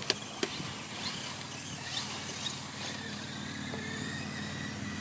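A few sharp clicks, then a motor running steadily with a low, even hum from about a second and a half in.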